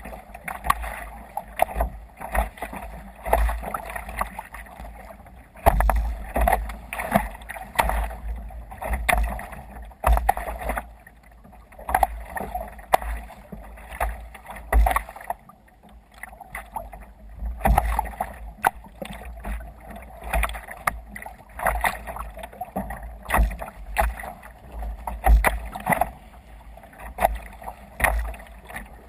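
Water slapping and splashing against the hull of a sailing sea kayak as it moves through waves, in irregular surges about once or twice a second, with low rumbling knocks underneath.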